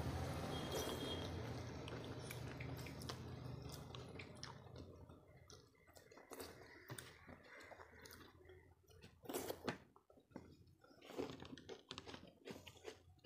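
Close-up eating sounds: wet chewing and mouth smacks, with fingers squishing and mixing rice and curry on a plate, in short scattered clicks and smacks. A low steady hum fades out over the first few seconds.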